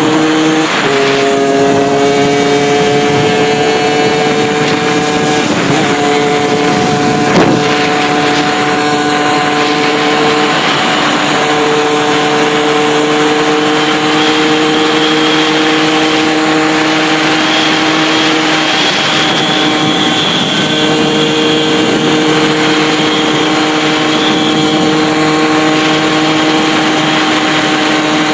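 Suzuki RG80 two-stroke single-cylinder moped engine, with a 21 mm Dell'Orto carburettor and an open intake, running hard at a fairly steady high pitch, with a few brief dips and changes in revs. A single sharp knock about seven seconds in.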